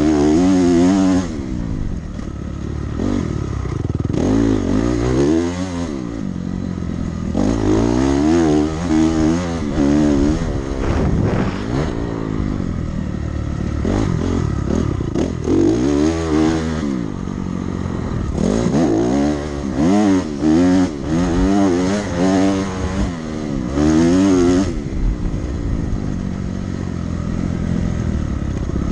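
Dirt bike engine under hard throttle around a motocross track: the pitch climbs and drops again and again as the rider revs out, shifts and backs off, with several loud peaks.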